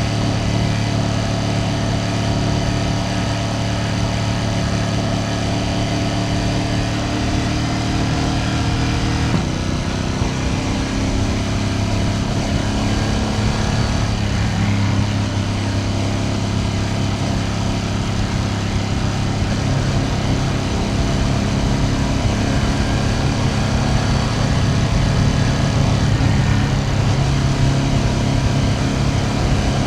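Ducati Panigale V2S V-twin engine running steadily under way, heard from the rider's position; its note steps down about nine seconds in and shifts again a few seconds later as revs change.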